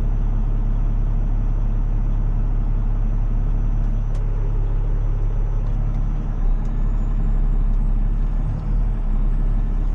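Tow truck's diesel engine running steadily as it drives, a low, even drone, with a faint high whine rising slightly about six seconds in.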